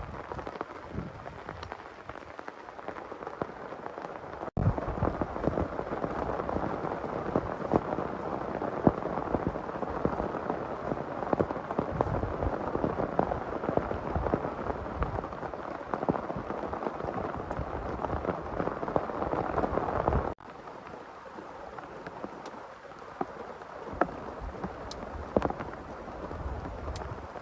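Heavy rain falling, a dense steady hiss with many separate drop hits close by. It abruptly gets louder about four and a half seconds in and abruptly drops back about twenty seconds in.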